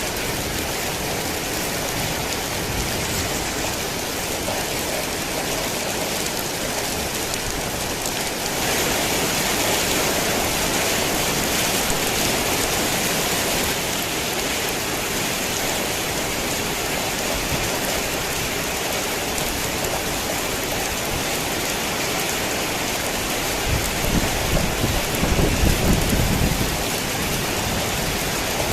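Heavy rain falling steadily, growing heavier for a few seconds about a third of the way in. Low rolling thunder rumbles in near the end.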